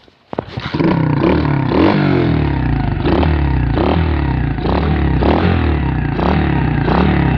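M2R KX110F pit bike's four-stroke single starting up about half a second in, then running loudly and unevenly with repeated throttle blips.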